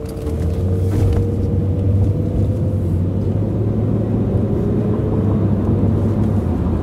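Steady low rumble of a car driving at speed, heard from inside the cabin, with a faint tone slowly sinking in pitch over the first few seconds.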